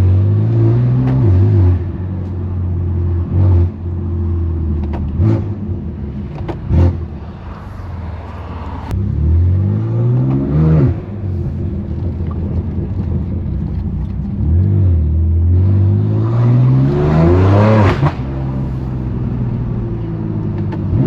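2018 BMW M3 Competition's twin-turbo S55 inline-six through a straight-piped exhaust, loud, pulling through the gears in city traffic: the engine note climbs three times, the longest and loudest pull near the end. A few short sharp cracks come from the exhaust in between.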